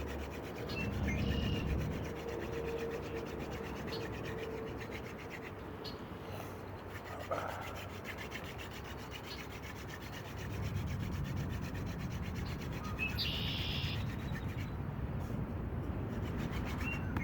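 Hand-drill fire set: a wooden spindle spun back and forth between the palms, grinding into a wooden fireboard with a steady dry wood-on-wood rubbing as friction heats the board. A little louder from about ten seconds in.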